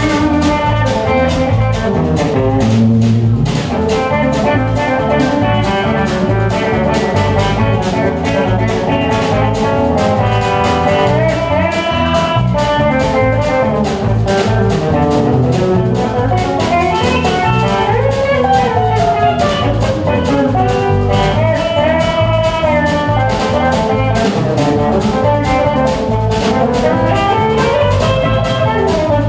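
A live band playing a blues-rock number with drum kit, guitar and bass, and a wavering lead melody line over a steady beat.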